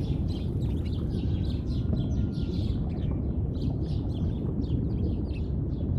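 Many small birds chirping in quick, overlapping calls over a steady low rumble of outdoor ambience.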